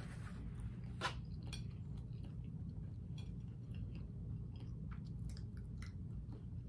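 A person chewing a mouthful of bacon and lettuce sandwich on toasted bread: short mouth clicks and smacks scattered throughout, one louder about a second in, over a steady low hum.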